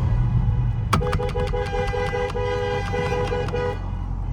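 A car horn honked in a rapid string of short two-note beeps, one held a little longer, for nearly three seconds starting about a second in. Under it the low exhaust rumble of a straight-piped Dodge Scat Pack's 6.4-litre HEMI V8 runs on.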